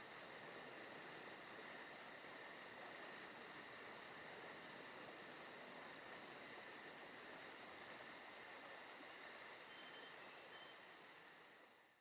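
Forest ambience of crickets and other insects chirping steadily, with a fast, even pulsing trill over a high continuous drone. It fades out near the end.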